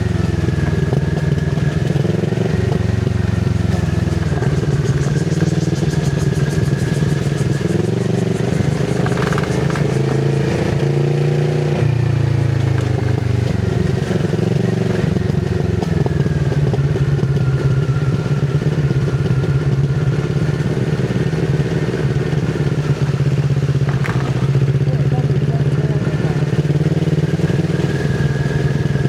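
Kawasaki Z650RS parallel-twin engine running through an IXIL MK2 full exhaust with its dB killer fitted, at low speed with the pitch rising and falling gently as the throttle changes. A few sharp knocks cut in briefly.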